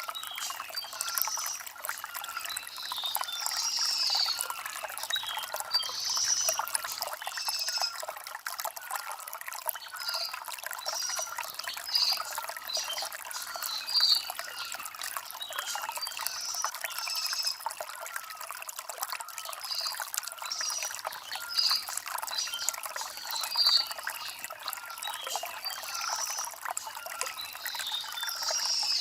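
Shallow stream trickling and gurgling over river stones, steady throughout, with short high-pitched bird chirps repeating every second or two.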